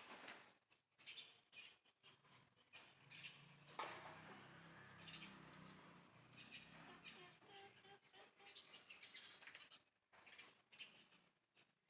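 Faint, scattered short high-pitched chirping calls from a small animal, with a soft low hum in the middle stretch.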